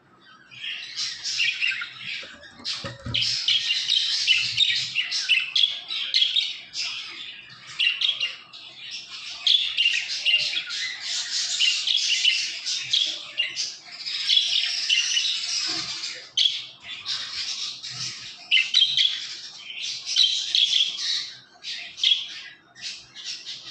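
A crowd of caged birds calling over one another, a dense, continuous chatter of high squawks and chirps with only brief lulls.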